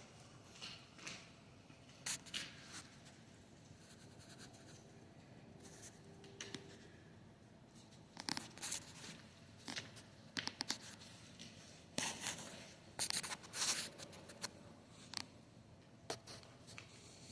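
Hand work on a lathe tailstock: scattered light scrapes and clicks of tools and metal parts at irregular intervals, with a run of louder scraping strokes a little past the middle.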